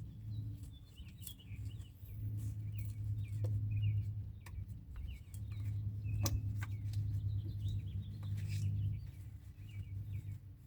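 Small birds chirping on and off over a steady low hum, with a few sharp clicks, the loudest about six seconds in.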